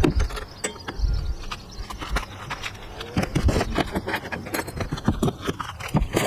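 Irregular metallic clicks, knocks and light scrapes of hand tools and parts being handled in motorcycle repair work.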